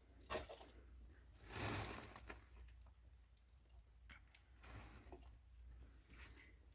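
Near silence: faint room tone with a low hum, a sharp click about a third of a second in and a brief rustle around two seconds in.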